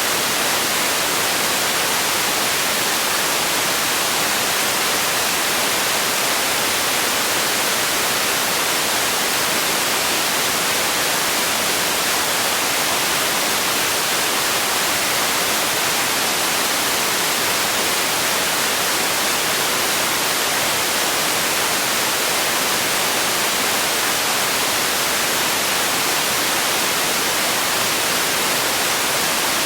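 Steady white noise: an even, unbroken hiss weighted toward the high end, with no change.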